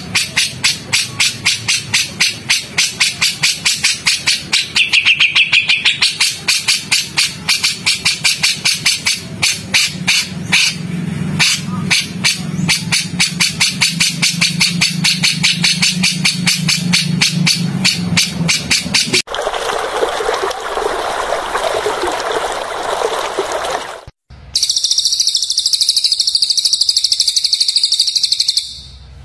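Edited sequence of songbird calls: a long run of rapid, harsh clicking calls, about four to five a second and getting denser, then a few seconds of rough rasping. After a brief break comes a high, fast, steady trill.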